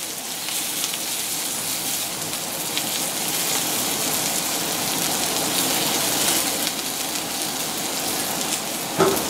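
Sliced onions, ginger and garlic sizzling in oil in a skillet, with turmeric powder toasting in, stirred with a silicone spatula. A steady, even sizzle with faint scrapes of the spatula.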